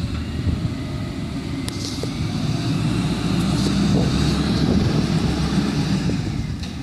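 Garbage truck engine running with a deep rumble, revving up from about two and a half seconds in and easing back near the end.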